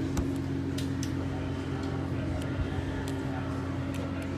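Steady machinery hum made of several constant low tones, with a few faint clicks.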